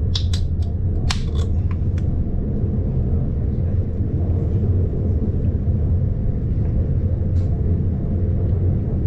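Steady low rumble of the new-generation ÖBB Railjet running, heard inside the passenger car. A few sharp clicks and short hisses come in the first two seconds.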